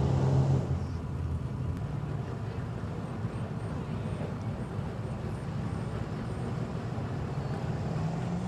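Truck engine running at low revs under a steady outdoor rumble. It is loudest for the first half-second and rises slightly in pitch near the end.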